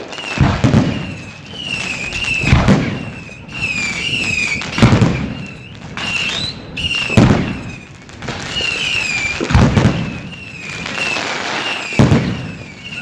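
New Year's fireworks going off: a loud bang about every two and a half seconds, with crackling in between. A high, wavering tone keeps coming back.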